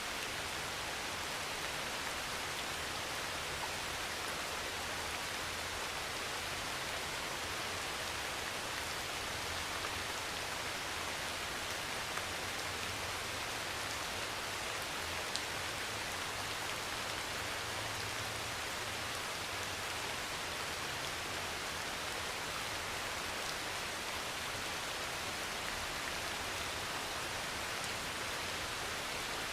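Heavy rain pouring steadily on a thin metal roof, an even hiss with a few sharper drop hits standing out now and then.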